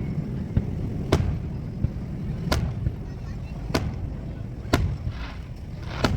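Fireworks going off: five sharp bangs spaced about a second apart over a steady low rumble.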